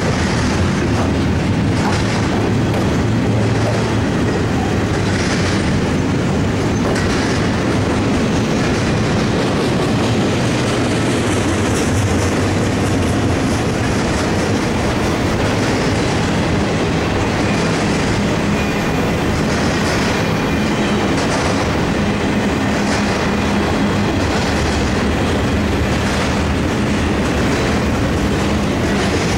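Union Pacific intermodal freight cars rolling steadily past, wheels clacking over rail joints, over a steady low hum.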